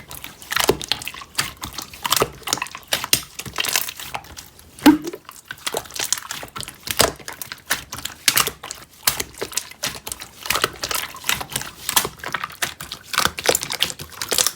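Rapid, irregular crackling and clicking with wet, squishy handling sounds.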